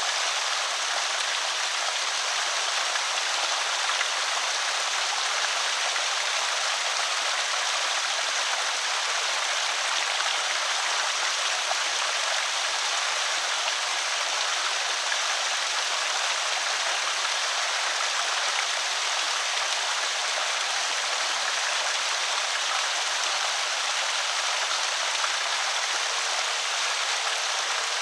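Creek water spilling over a small spillway: a steady, even rush of splashing water.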